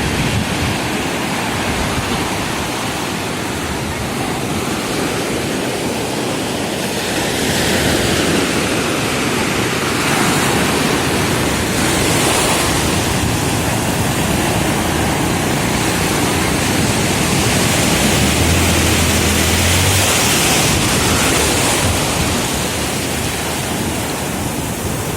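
Sea surf rushing steadily onto a beach, swelling at times, with wind buffeting the microphone.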